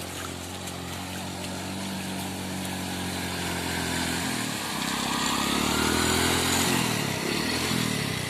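Motorcycle engine running steadily, then revving up and down from about halfway through, getting louder.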